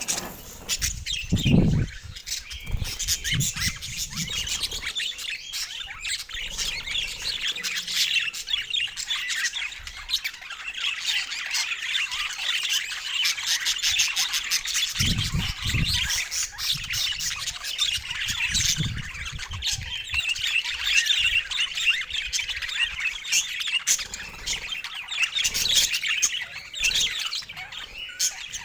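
Budgies chattering and chirping without pause, with a few low thumps about a second and a half in and again around halfway.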